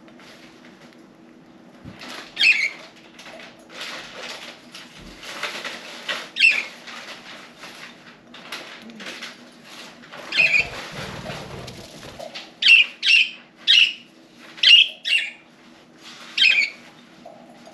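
Budgerigars giving short, sharp chirps, sparse at first and then several in quick succession in the second half, with wing flutters and rustling between them.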